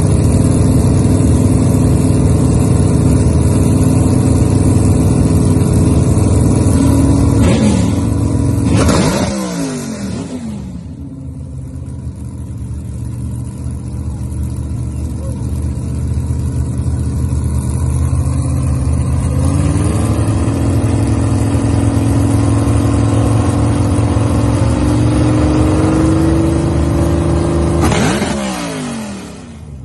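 Loud car engine running at steady high revs, the pitch dropping sharply about nine seconds in, stepping back up around twenty seconds, and dropping again near the end.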